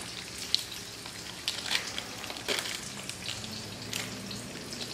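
Shallots, garlic and onion frying in oil in a wok: a steady sizzle with a few sharp crackles scattered through it.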